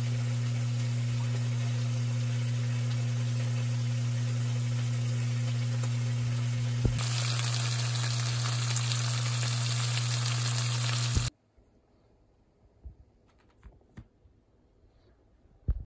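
Kimchi frying in pork-belly fat in a wok: a steady sizzle over a low hum. The sizzle grows brighter about seven seconds in and cuts off abruptly about eleven seconds in, leaving near silence with a few faint clicks.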